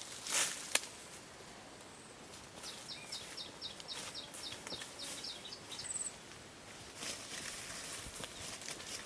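Quiet forest ambience with a bird calling a run of short, evenly spaced high notes, about four a second, and a brief high chirp just after. There are faint rustles and clicks, and a quick swish and click near the start.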